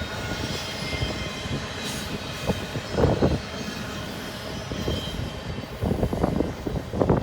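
Intermodal container train's railcars rolling past on the rails, with a faint high wheel squeal in the first half and louder irregular rumbles about three seconds in and again near the end.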